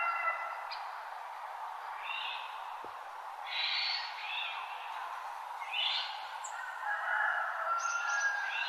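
Dawn chorus of forest birds: short high song phrases repeating every second or two over longer whistled notes, with a steady hiss underneath.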